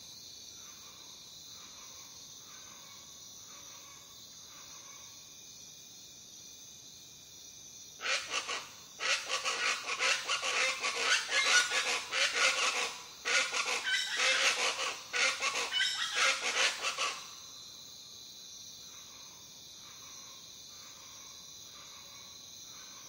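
Jungle ambience: a steady chirring of insects with a few soft repeated bird notes, broken from about eight seconds in by a loud, harsh chorus of many birds calling together. The chorus lasts about nine seconds, with two short breaks, then drops back to the insects and soft notes.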